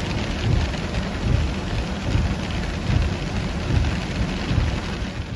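Heavy rain: a steady roar of downpour with uneven low rumbling underneath.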